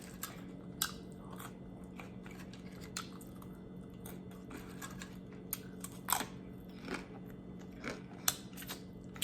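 Close-miked chewing of a taco mouthful, with irregular sharp wet mouth clicks.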